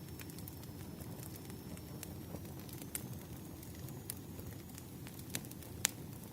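Wood fire burning: a steady low rumble of flames with scattered sharp crackles and pops from the logs, a few louder pops near the end.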